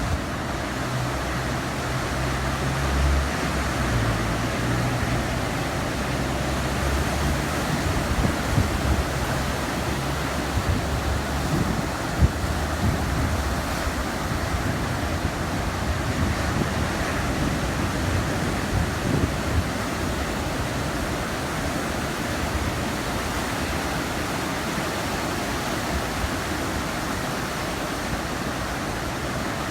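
Steady noise of ocean surf from a typhoon swell breaking on the beach, with wind rumbling on the microphone, heaviest in the first ten seconds or so.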